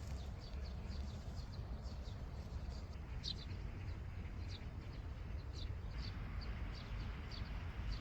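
A small songbird repeating short, high, falling chirps, about two to three a second, over a steady low rumble.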